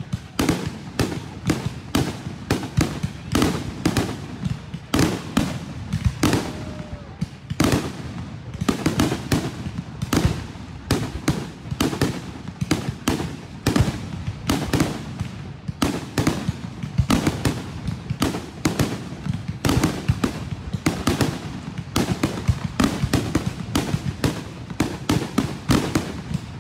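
Aerial fireworks display: a steady, rapid string of shell bursts, about two to three sharp bangs a second, each with a short low rumble after it.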